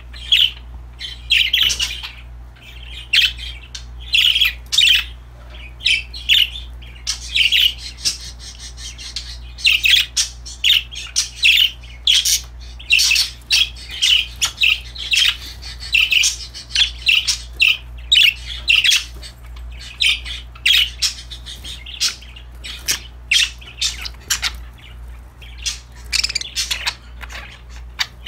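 Pet budgerigars chirping and chattering: a steady run of short, high calls and squawks, several birds at once. A low steady hum runs underneath.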